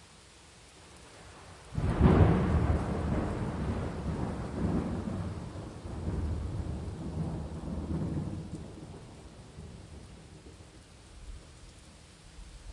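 Steady rain hiss, then a clap of thunder about two seconds in that breaks suddenly and rumbles on in several swells, slowly fading over the next eight seconds.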